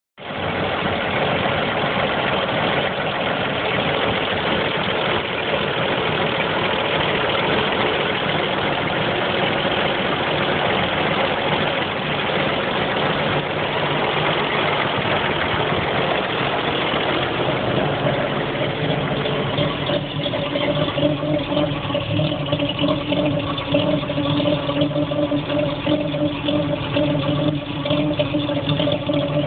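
GMC CCKW truck's straight-six engine running with the engine knock it is recorded for. About two-thirds of the way through it settles into a slower, more uneven idle with a steady hum and a pulsing beat.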